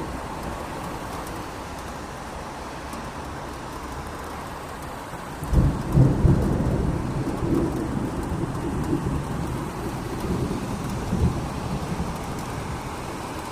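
Steady rain falling, with a sudden clap of thunder about five and a half seconds in that rumbles on in several swells for about six seconds before fading back under the rain.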